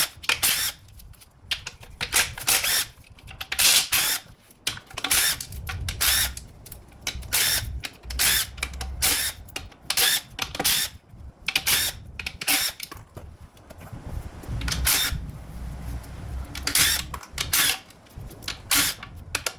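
A socket wrench undoing the transmission's 10 mm bolts, in many short repeated bursts of clicking.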